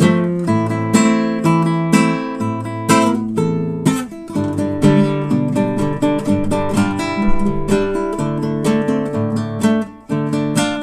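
Solo acoustic guitar playing an instrumental arrangement of a rock song, with a bass line, chords and melody plucked and strummed together. The playing briefly drops away shortly before the end, then resumes.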